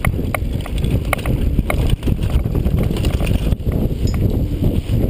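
Downhill mountain bike rolling fast over rough trail: a steady rumble of wind and tyre noise on the microphone, with sharp rattling clicks from the bike, most frequent in the first half.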